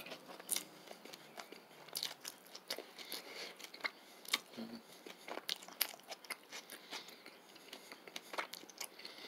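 A person chewing a mouthful of plant-based burger in a bun close to the microphone, with many small, irregular crunches from the pan-fried patty, which is cooked crispier than he likes.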